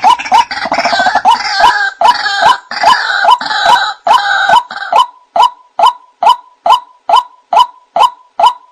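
White-breasted waterhen calling: a dense tangle of overlapping croaks and chatter for about the first half, then a steady run of repeated single notes, about two and a half a second.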